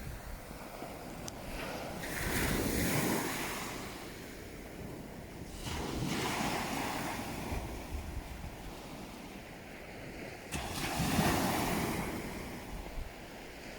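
Sea waves breaking and washing in, rising and falling in three swells about four seconds apart.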